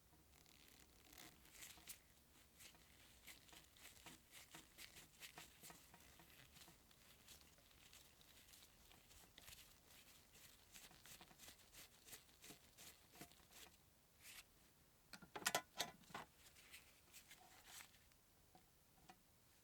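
Faint small clicks and rustles of small objects being handled, with a short, louder clatter of clicks about fifteen seconds in.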